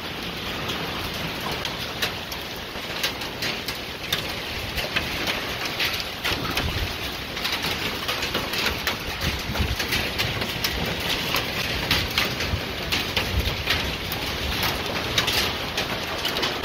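Heavy rain mixed with hail falling on paving stones, a wooden table and orchard trees: a steady hiss dense with sharp individual taps.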